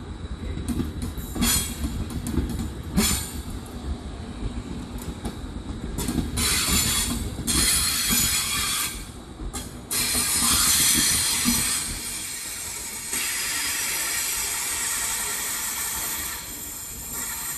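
Intercity train carriages rolling past. The wheels knock over the rail joints at first. From about six seconds in, a high, loud hiss and squeal comes from the wheels on the rails as the train pulls away.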